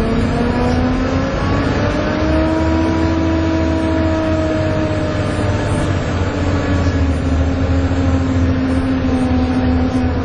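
Volvo B7TL double-decker bus under hard acceleration: the diesel engine's loud drone carries the vacuum-cleaner-like 'hoover' whine, which rises in pitch over the first couple of seconds and then holds steady.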